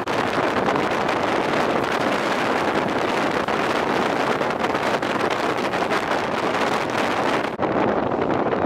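Wind rushing over the microphone, mixed with the steady running noise of a passenger train at speed, heard through an open coach door or window. About a second before the end the sound turns abruptly duller.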